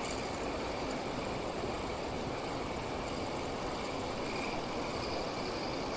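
Steady rushing of water pouring over a weir, an even roar with no breaks.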